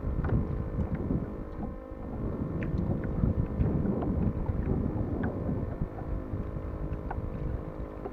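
Wind buffeting the action camera's microphone on a kayak at sea: a continuous rumbling gust noise, with scattered small ticks and splashes.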